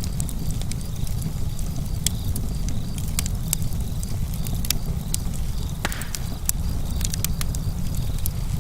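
Campfire crackling: burning wood gives off irregular sharp pops and snaps over a steady low rumble.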